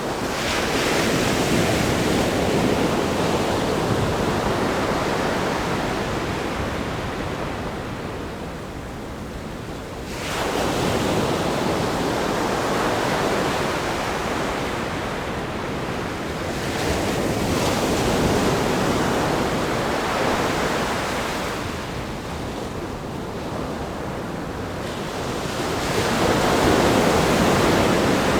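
Ocean waves breaking and washing over a rock groin and sandy beach, the surf rising and falling in several surges about every seven to ten seconds.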